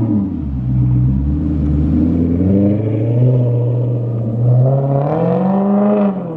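Straight-piped Maserati GranTurismo V8 exhaust running loud. The engine note dips briefly, holds, then climbs steeply about four and a half seconds in and falls off sharply just before the end as the throttle is lifted.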